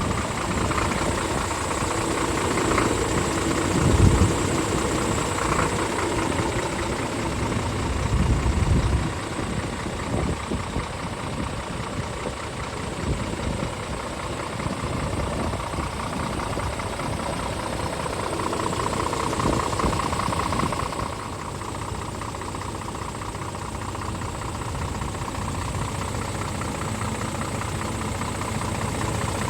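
Scania R450 truck's 13-litre straight-six diesel engine idling steadily, with a couple of brief low surges and a slight drop in level about two-thirds of the way through.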